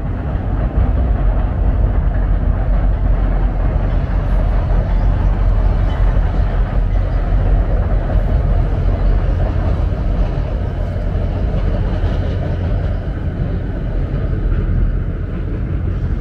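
A train passing over a railroad bridge: a loud, steady rumble that holds throughout and only eases near the end.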